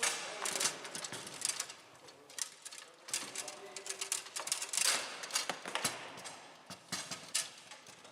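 Table football being played on a Bonzini table: quick, irregular clicks and knocks of the ball striking the player figures, rods and table walls.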